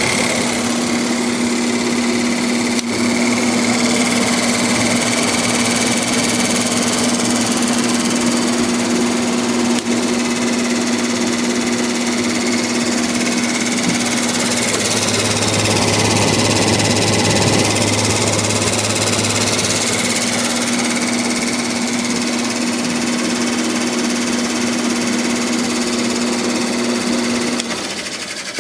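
Haier 5000 BTU window air conditioner running on max cool with the fan on low: a steady hum with a rush of air. The sound drops off suddenly near the end.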